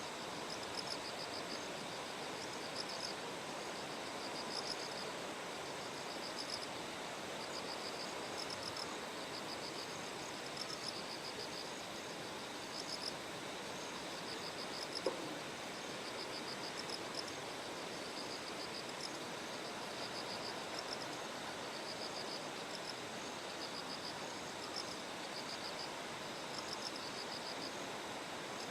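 Bell crickets (suzumushi) singing in short, high trills that repeat every second or two over a steady rush of flowing water. There is one faint click about halfway through.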